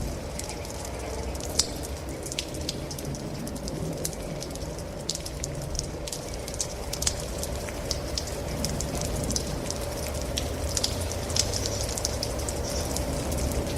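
Rain falling steadily, with many individual drops ticking sharply and unevenly close by over a constant low rumble.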